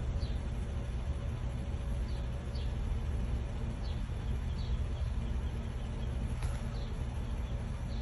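Small bird giving short, faint, falling chirps every second or so over a steady low background rumble.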